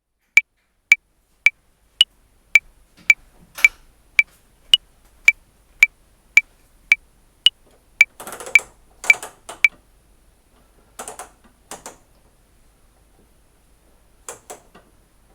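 Metronome clicking at 110 bpm in 5/4, with a higher-pitched accented click on the first beat of every five. The clicks stop about ten seconds in. Brief clattering and rustling noises come in a few times, a short cluster of them just before the clicks stop.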